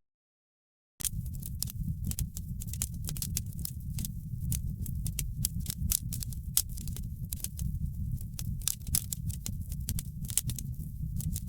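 Fireplace fire crackling: a dense run of sharp pops and snaps over a steady low rumble of burning. The sound cuts out completely for about a second at the start, then resumes.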